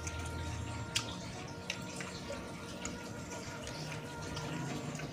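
Wet mouth sounds of someone chewing a mouthful of noodles: irregular smacks and clicks, the sharpest about a second in.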